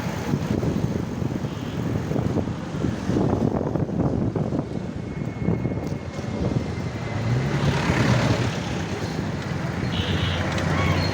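Road traffic noise with wind rumbling on the microphone while riding, steady throughout.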